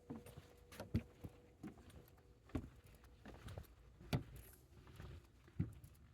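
Footsteps walking along a woodland trail at a steady pace: short thuds with a light crunch, a heavier step about every one and a half seconds and softer ones in between.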